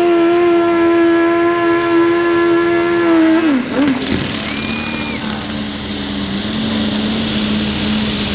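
Engine of a 6,000-pound super stock pulling tractor, said to have a dead cylinder, held at high steady revs under load. About three and a half seconds in the revs fall off sharply and it settles to a lower, rougher steady run.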